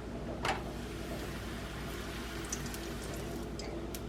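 Soft, steady hiss of liquid in the kitchen, with a sharp knock about half a second in and a few light clicks in the second half.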